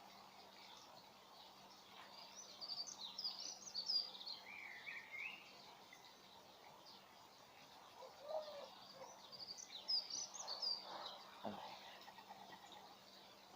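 Birds chirping in two spells of quick high chirps, with a faint steady hum underneath.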